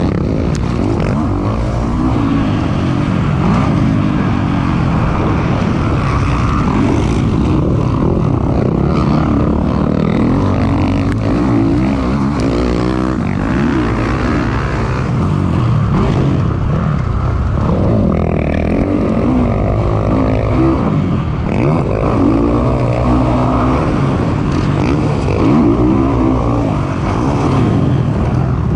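Kawasaki KX450 motocross bike's four-stroke single-cylinder engine revving up and down repeatedly as it is ridden hard around the track, picked up by an onboard camera.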